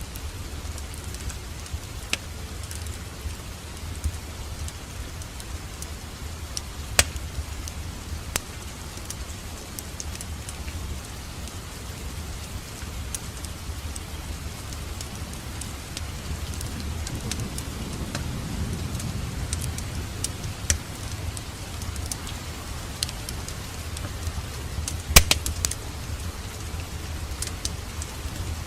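Wood fire crackling in a fireplace: a steady low rumble of flame under a soft hiss, with scattered sharp pops, a brief swell of the flames past the middle, and a loud double crack near the end.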